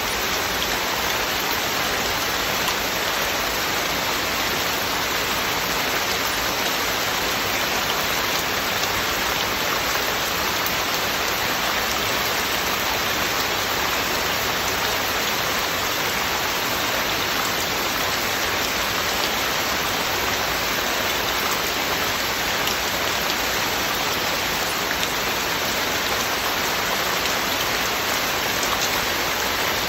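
Heavy, steady rain falling, a constant even hiss of many drops with no thunder and no music.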